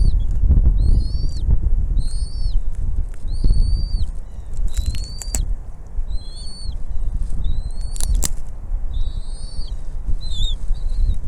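Bald eagle calling: a string of short, high, thin call notes, roughly one a second, over a heavy low rumble. Two sharp knocks come, one about five seconds in and one about eight.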